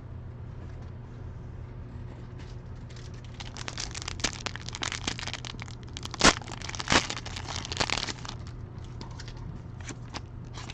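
Foil trading-card pack wrapper being torn open and crinkled, with two sharp cracking snaps about six and seven seconds in.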